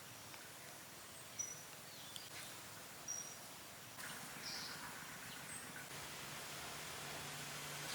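Faint outdoor ambience with a bird giving short, high chirps about every two seconds.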